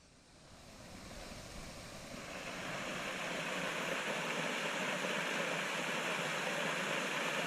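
Steady rushing of a waterfall, fading in over the first three seconds or so and then holding level.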